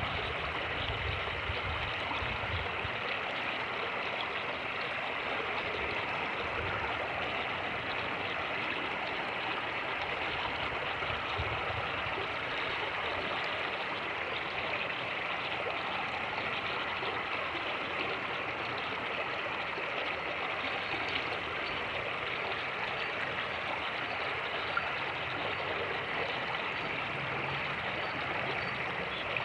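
Fast-moving creek rushing steadily over its bed, with low rumbles of wind on the microphone in the first few seconds.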